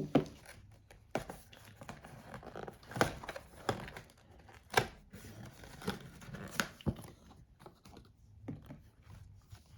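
Panini sticker packets being torn open and crinkled, with several sharp rips at irregular intervals over quieter rustling of the paper.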